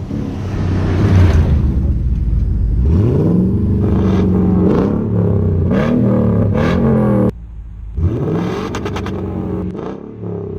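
Toyota Tundra's 5.7-litre V8 exhaust through an aftermarket muffler system, revved several times with quick rises and falls in pitch. The revs cut off suddenly about seven seconds in, then climb again a second later.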